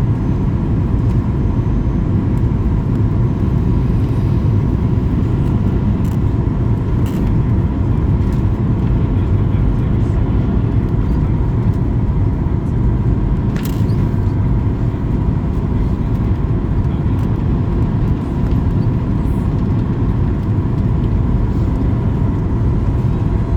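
Steady drone of an aircraft in flight, heard from inside the cabin: deep engine and airflow rumble with a constant hum-like tone on top.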